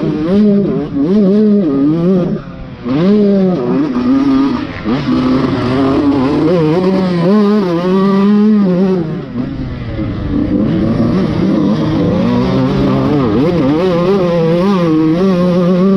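Dirt bike engine being ridden hard, its pitch rising and falling continuously as the throttle is opened and chopped, with a brief drop in level about two and a half seconds in.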